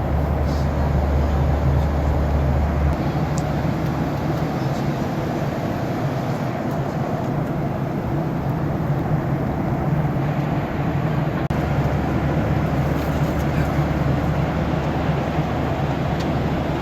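Steady engine rumble and hiss of a vehicle heard from inside it. The deepest part of the hum drops away about three seconds in and comes back around twelve seconds.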